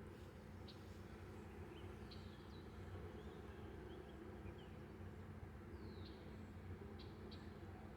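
Faint bird chirps, a handful of short high calls, some sliding down in pitch, over a steady low rumble.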